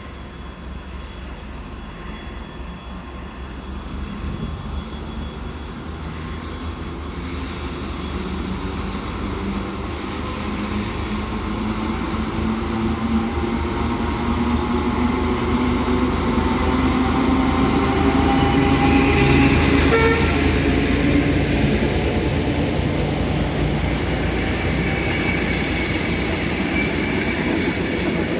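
Diesel locomotive engine running under load as it hauls electric-train cars past, growing steadily louder along with the rumble of the rolling train. The horn gives a short toot around twenty seconds in.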